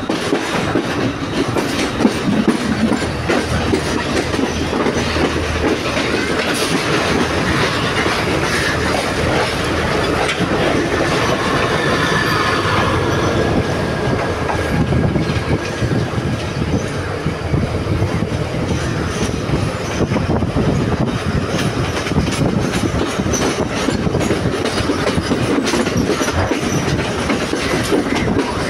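A moving train heard from inside at an open window: a steady rumble of wheels on rails with rapid clickety-clack over rail joints and points, and a thin wheel squeal in the middle.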